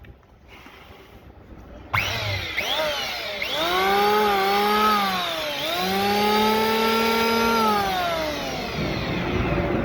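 A motor or small engine comes in suddenly about two seconds in and runs with its pitch rising and falling, dipping briefly midway and winding down near the end.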